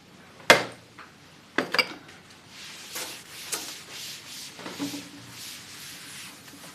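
Handling noises: one sharp click about half a second in, two lighter knocks a second later, then soft rubbing and light clattering of small objects.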